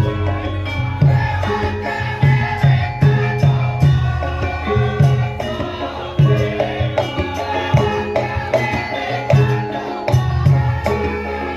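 Javanese gamelan music played live for lengger dance: bronze metallophones and gongs ringing held pitched notes over a steady pulse of low hand-drum strokes.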